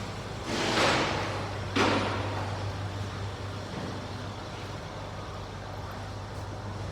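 Land Rover 3.6 TDV8 (368DT) twin-turbo V8 diesel running steadily at idle with a low hum. About a second in there is a brief rushing noise, then a sharper, louder one just before two seconds in.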